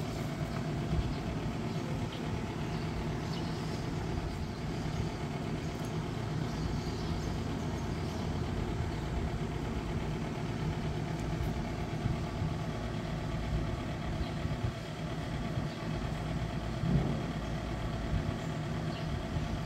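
Yamaha SRX400's single-cylinder four-stroke engine idling steadily, warmed up for an oil-level check in its dry-sump tank.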